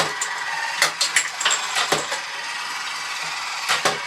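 TOMY Mr. Mouth game running, its battery motor turning the head with a steady geared whir, over sharp plastic clicks of the flipper arms snapping and coins striking: several in the first two seconds and a pair near the end.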